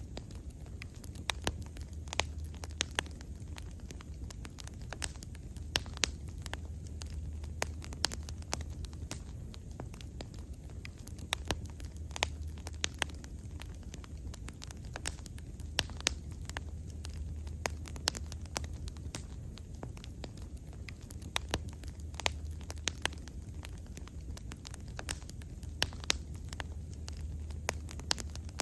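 Wood fire burning, with sharp irregular crackles and pops, several a second, over a steady low rumble of the flames.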